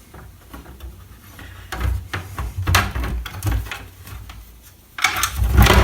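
Plastic Commodore 64 case being opened by hand: scattered clicks and knocks, then a louder clatter of plastic handling near the end.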